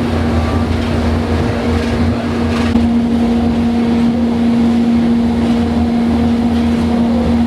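Snowdon Mountain Railway rack train heard from on board, its engine droning steadily with a constant hum as it climbs.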